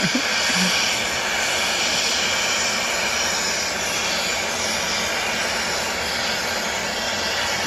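Cutting torch running with a steady hiss as it cuts through the chiller's metal.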